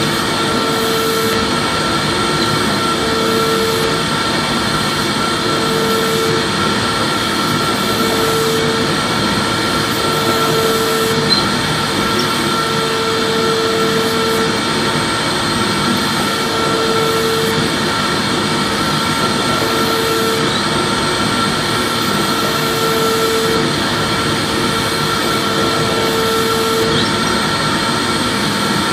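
Vacuum cleaner running steadily, a constant rushing of air with a high whine from the motor, and a lower hum that comes and goes every second or two.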